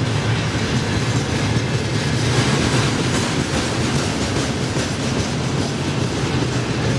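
Freight train rolling past as it pulls away, a steady rumble with the wheels clicking over the rail joints.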